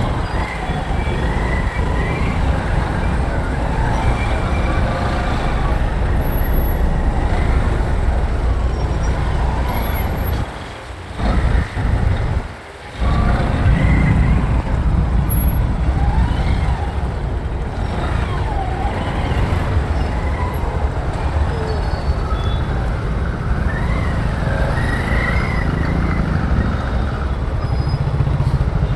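Riding a motorcycle through city traffic: dense rumble of wind on the microphone mixed with engine and traffic noise, easing off briefly twice about eleven and thirteen seconds in.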